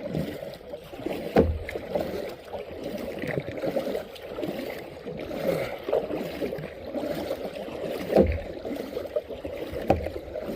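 Kayak paddling: the paddle dips and splashes in the water over a steady wash, with a few sharp knocks, the loudest about a second and a half in and another about eight seconds in.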